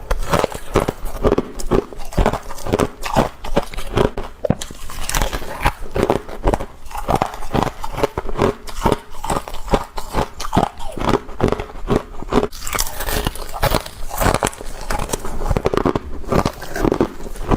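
Frost being bitten and chewed, close up: a steady run of crisp crunches, several a second, throughout.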